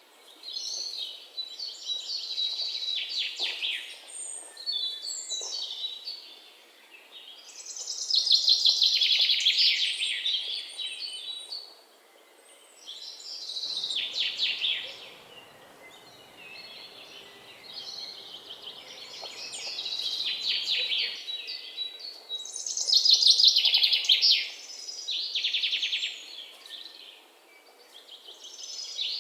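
Songbirds singing: a run of high, fast-trilled song phrases, each one to three seconds long, with short pauses between.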